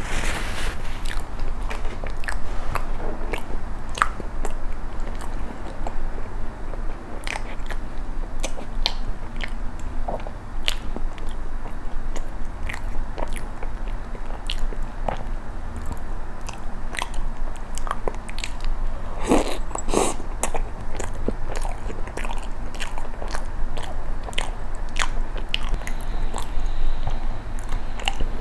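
Close-miked chewing of soft injeolmi cream bread dipped in milk: wet mouth clicks and smacks with a steady run of small bites. About two-thirds of the way through comes a louder pair of bites.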